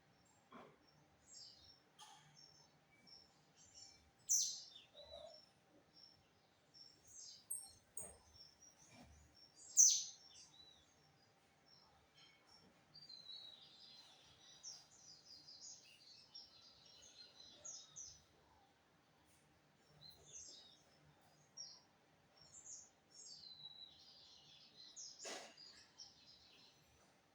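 Lined seedeater (bigodinho) singing: scattered short sharp chirps, the loudest about four and ten seconds in, with longer twittering song phrases in between and near the end.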